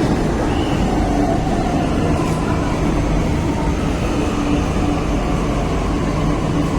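Delhi Metro train running: a steady rumble with a few faint held tones over it.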